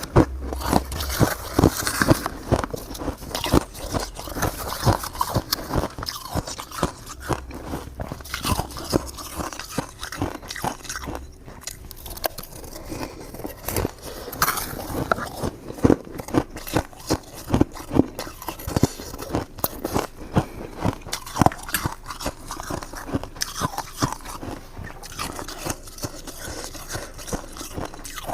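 Frozen shaved ice being bitten and chewed: a dense, irregular run of crisp crunches.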